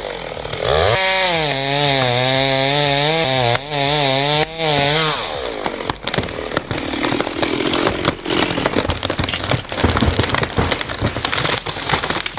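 Chainsaw cutting through a big trunk, its pitch wavering under load, stopping about five seconds in. Then a long run of crackling and snapping as the tree goes over.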